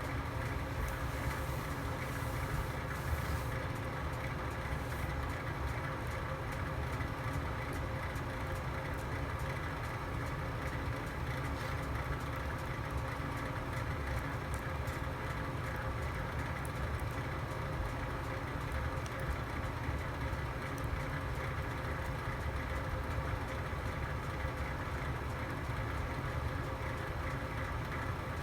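Fire burning in a fireplace, a steady low rumble with a few faint scattered crackles.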